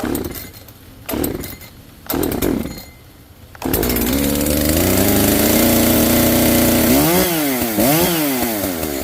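Echo CS-590 Timberwolf 59.8 cc two-stroke chainsaw pull-started with the choke pushed back in after its first fire: a few short pulls on the starter cord, then it catches about three and a half seconds in and runs steadily. Near the end the throttle is blipped twice, the engine note rising and falling each time.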